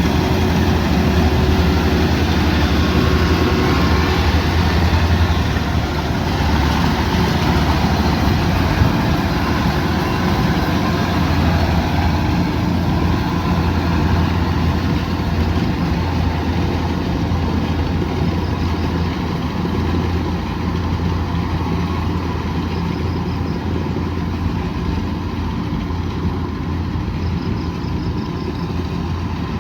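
Kubota DC108X combine harvester running steadily with a deep, even engine hum and the noise of its machinery, easing slightly in loudness over the stretch.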